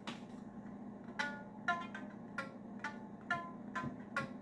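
A series of short struck notes, each with a sharp attack and a brief bright ring, coming roughly two a second in loose pairs from about a second in, over a faint steady hum.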